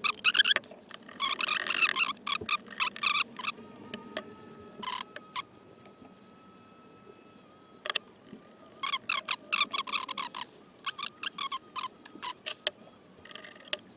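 Aerosol can of Corroless rust-inhibiting primer in use: short hissing spray bursts, with runs of quick rattling strokes like the mixing ball being shaken inside the can.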